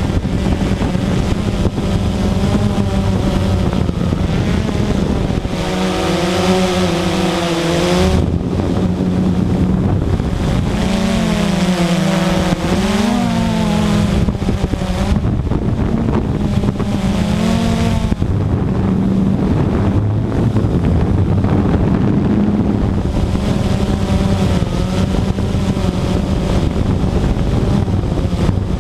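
Radio-controlled model aircraft motor running in flight, its steady drone swooping up and down in pitch as the model passes and the throttle changes, with wind noise on the microphone.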